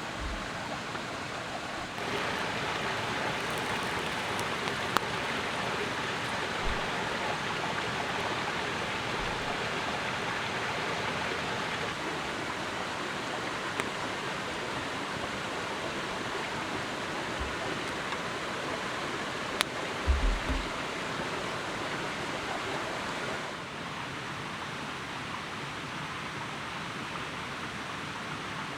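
Steady rushing noise with a few faint knocks; it grows louder about two seconds in and drops back a few seconds before the end.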